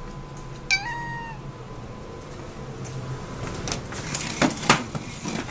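A cat gives one short meow about a second in. Scattered light clicks and knocks follow in the second half.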